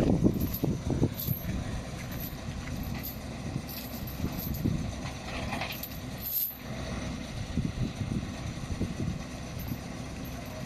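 Heavy machinery running with a steady low rumble, irregular knocks and light metallic clinks, the knocks loudest in the first second.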